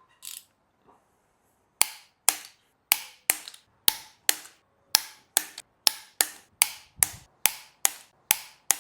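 Ratchet torque wrench clicking as the cylinder head stud nuts are tightened to the 60 step of a three-step torque sequence: sharp, evenly spaced clicks, about two or three a second, starting about two seconds in.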